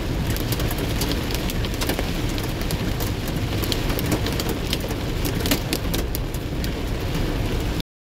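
Rain falling steadily, with many sharp drop ticks over a constant low rumble; it cuts off suddenly near the end.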